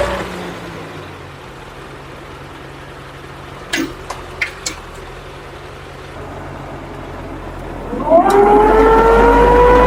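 A motor's steady whine cuts off, leaving a low hum that fades away, and a few sharp clicks follow midway. About eight seconds in, a motor starts again: its whine rises in pitch as it spins up, then settles into a steady run.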